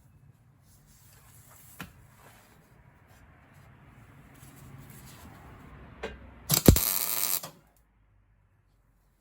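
A welder laying a tack weld on a steel cab-hinge piece: about a second of loud arc crackle near the end, starting with a thud, after faint shop noise and a couple of clicks.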